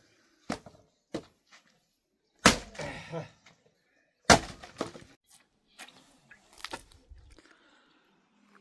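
A series of sharp knocks and cracks, about five in all, the two loudest roughly two seconds apart, each followed by a brief rattle.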